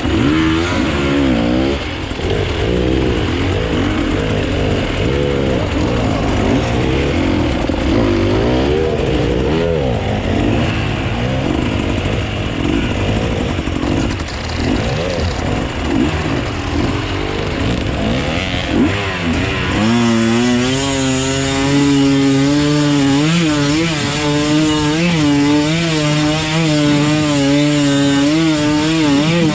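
Off-road dirt bike engine riding with constantly varying throttle, then about twenty seconds in settling to a steady, slightly wavering pitch held at near-constant revs.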